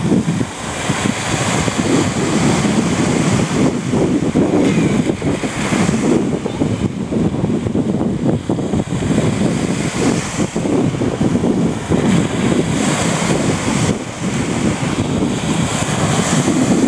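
Strong offshore wind of about 14–16 m/s buffeting the microphone in loud, gusty blasts, with Black Sea waves breaking on the shore underneath.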